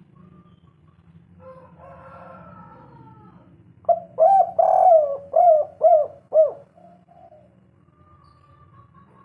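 Spotted dove (tekukur) cooing: a phrase of about six quick coos, each rising and falling in pitch, starting about four seconds in. A fainter, rougher call comes a couple of seconds before it.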